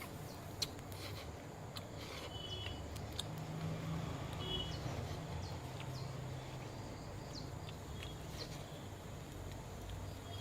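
Faint outdoor ambience: short, high bird chirps a few times and scattered small clicks over a low, steady rumble.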